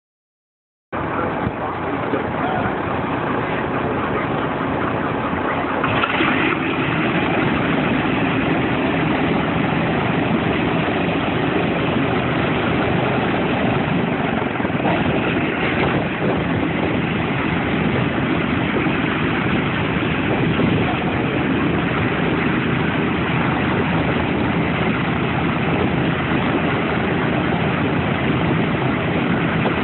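B-17 Flying Fortress's Wright R-1820 Cyclone radial engines running steadily, cutting in abruptly about a second in.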